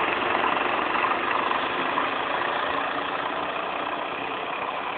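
Small engines of a 79cc Motovox mini bike and a 50cc Honda Elite scooter running at speed in a race, the sound fading steadily as they pull away.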